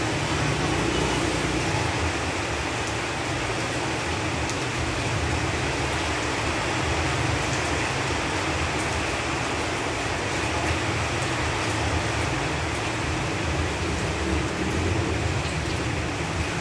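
Steady rain falling on leaves and foliage, a continuous even patter with scattered faint drip ticks.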